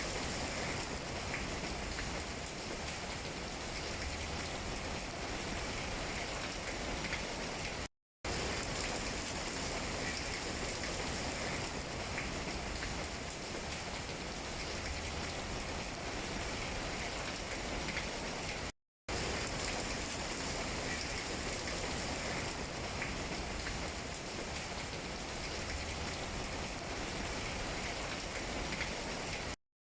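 Steady rain falling on tree leaves: an even hiss with faint scattered drip ticks. It cuts out to silence for a split second three times, about every eleven seconds.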